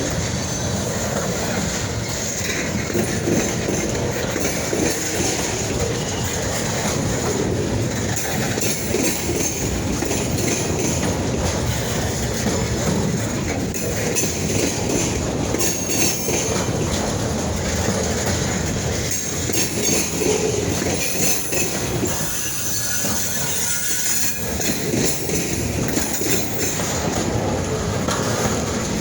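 Train cars rolling by steadily, their steel wheels clacking over the rail joints, with a faint wheel squeal about three-quarters of the way through.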